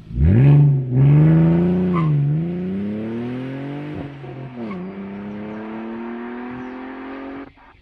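The engine of an HRC Hurricane, a rebodied BMW Z4 roadster, accelerating hard as the car pulls away. Its pitch climbs, drops at three upshifts and climbs again, growing fainter with distance, and cuts off shortly before the end.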